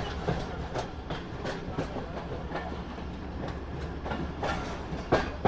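Passenger train running along the track: a steady low rumble with irregular wheel clacks over rail joints, the loudest two near the end.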